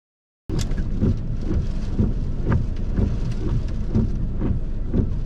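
Heavy rain and wind gusts battering a car during a severe thunderstorm, over a constant deep rumble. It starts abruptly about half a second in.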